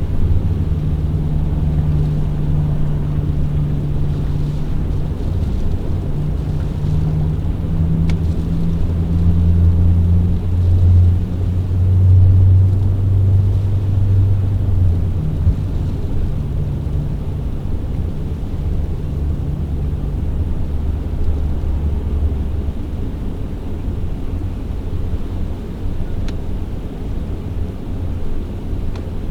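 A steady low engine drone from a vehicle, swelling about ten seconds in and then settling back.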